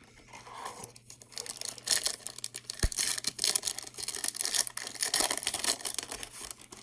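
A foil trading-card pack wrapper being torn open and crinkled by hand, a rapid scratchy rustling that builds up about a second in and stops just before the end.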